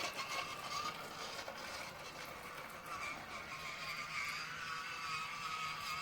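WPL B-1 scale RC truck's electric motor and converted gearbox with metal driveshafts whining steadily as it drives, with light clatter from the drivetrain.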